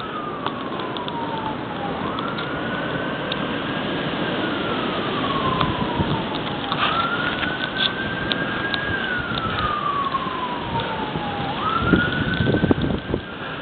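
A siren wailing, its pitch rising and falling slowly about every five seconds, heard over steady gusting wind noise.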